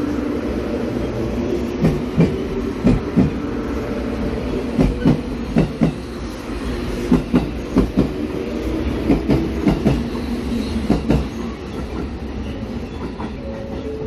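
JR Kyushu 783 series electric train passing close by, its wheels clicking over the rail joints in quick pairs of knocks over a steady hum. The clicking stops about eleven seconds in as the train draws away.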